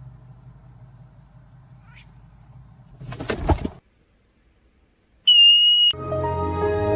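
A short hissy burst, a second of dead silence, then a single steady high electronic beep of about half a second, followed by music starting.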